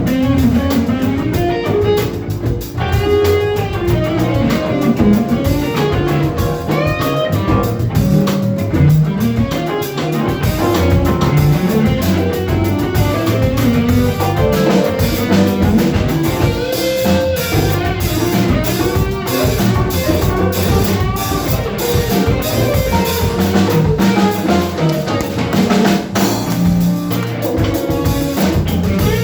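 Live band playing an instrumental with electric guitar and drum kit, continuous throughout.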